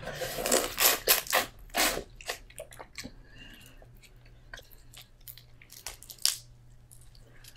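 Close-miked chewing and biting of seafood: a quick run of wet crunches and mouth clicks in the first two seconds, then sparser soft clicks, with one sharper click about six seconds in.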